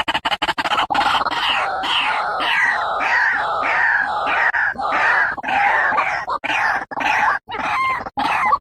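White-breasted waterhen calling, a long series of harsh repeated notes about two to three a second, breaking into separate, spaced notes near the end. A recorded call used as a lure for the birds.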